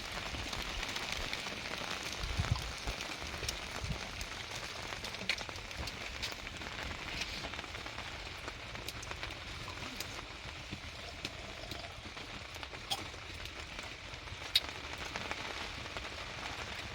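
Steady rain falling, with scattered louder drops hitting nearby surfaces.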